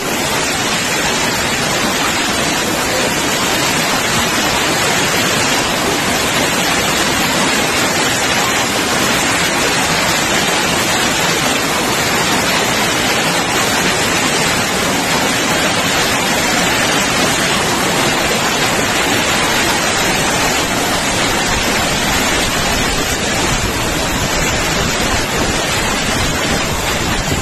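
Torrential hail and rain pouring down together in a dense, steady hiss.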